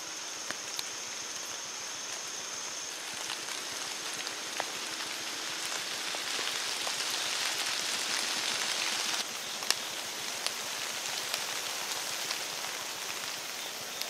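Light rain and water dripping off the leaves of the trees: a steady patter with scattered sharper drops, growing louder for a few seconds and then falling off suddenly about nine seconds in.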